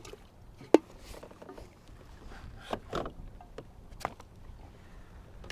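Gear being handled aboard a kayak: a few sharp knocks and clicks, the sharpest about three-quarters of a second in, over a low rumble of wind on the microphone.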